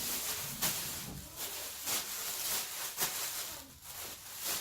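Plastic packing bags crinkling and rustling as they are handled and bunched up, with irregular crackles throughout.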